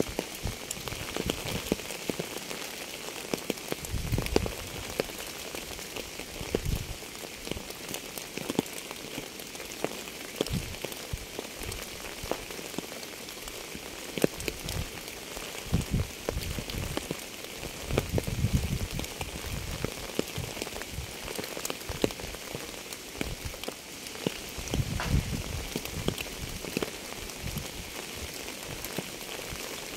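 Steady rain falling, a constant hiss with many individual drops ticking through it. Every few seconds a low, dull rumble of about a second rises and fades.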